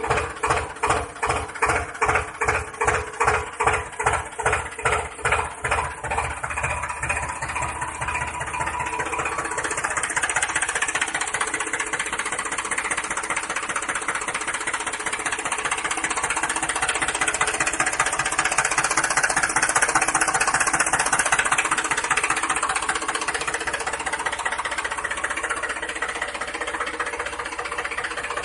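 A small motor running with a rhythmic chugging, about two beats a second, for the first ten seconds or so. It then settles into a steadier hum that grows slightly louder.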